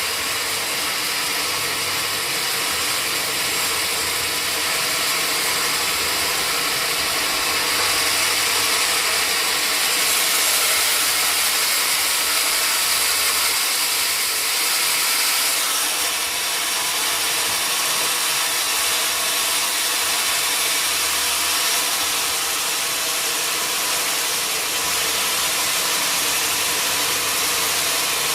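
Sawmill machinery running steadily, a dense hiss strongest in the high end, a little louder for a few seconds in the middle.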